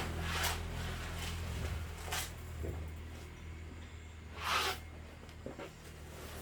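A motor's low steady hum fading away, with three brief swishing noises over it.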